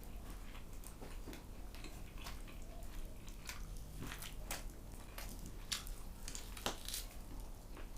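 A person eating the grilled food: faint bites and chewing, with scattered small clicks and crunches.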